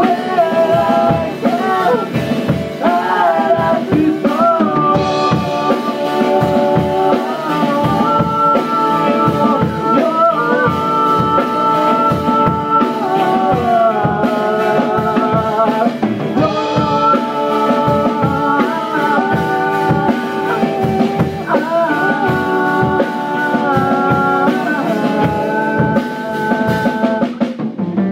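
A rock band's song with drums and a sung lead melody in long held notes. The vocal is a placeholder, sung with improvised words before the lyrics were written. The music cuts off suddenly at the very end.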